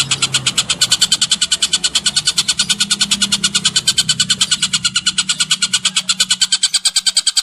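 A songbird's fast, sustained trill of repeated notes, about eleven a second, from a masteran recording that combines tengkek buto, cililin and canary song. A low hum runs underneath and stops near the end.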